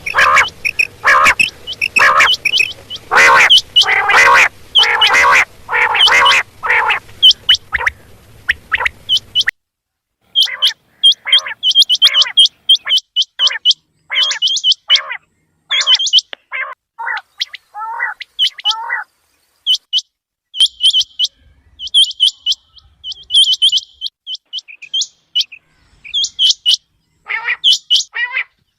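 Quail calling over and over in quick series of short notes, some high and sharp, others lower and trilled. A low background hum under the calls stops about nine seconds in, after which the calls come between dead-silent gaps, as in an edited call recording.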